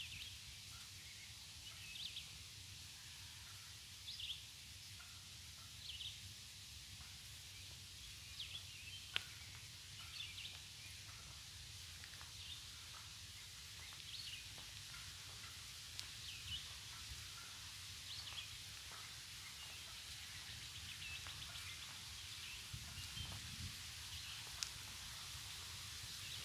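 Faint outdoor ambience: a small bird repeats a short, high call about every two seconds over a low rumble, with a couple of sharp clicks.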